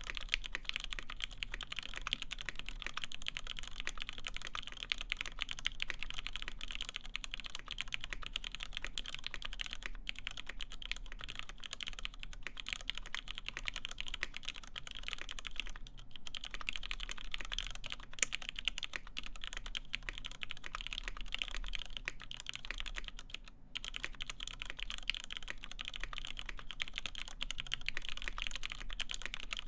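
Steady, fast typing on a Duck Unicorn x Legend mechanical keyboard with lubed vintage Cherry MX Black linear switches, an FR-4 plate and PBT keycaps: a dense run of keystroke clacks, with one brief pause about three-quarters of the way through.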